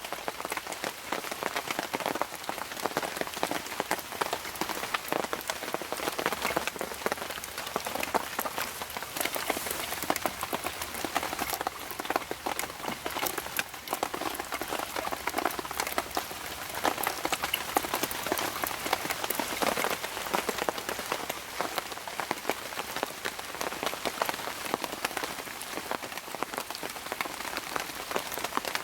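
Steady rain falling in the woods, with many individual drops ticking against a surface.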